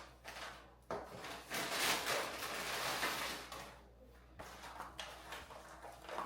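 Rustling and light knocks of things being handled, loudest in the first half, then quieter.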